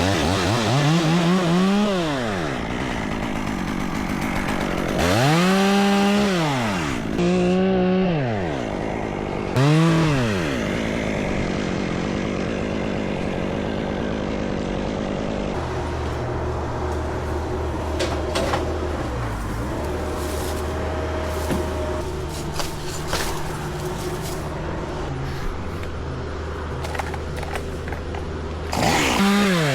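Chainsaw revved in short bursts, its pitch rising and falling four times in the first ten seconds. It then runs steadily at a lower pitch through the second half and is revved once more near the end.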